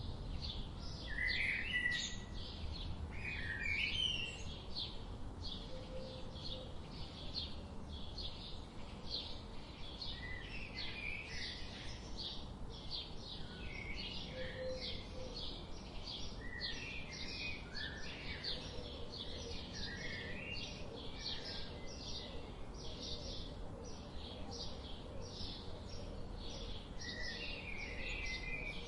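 Birds chirping: a steady run of short, high chirps repeating about two to three times a second, with other lower, warbling calls scattered through, over a low background noise.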